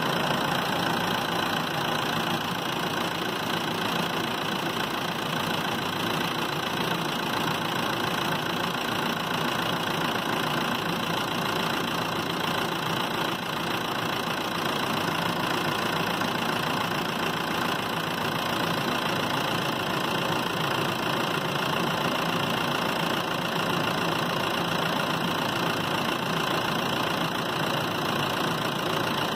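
Car engine idling steadily with the air conditioning running.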